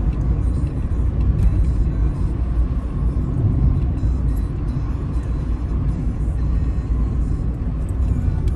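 Car driving along a road, heard from the dashboard: a steady low rumble of engine and tyre noise.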